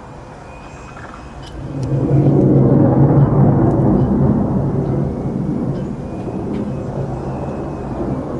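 F-35A Lightning II's single turbofan jet engine flying past: a deep rumble that swells suddenly about two seconds in, peaks, then slowly fades.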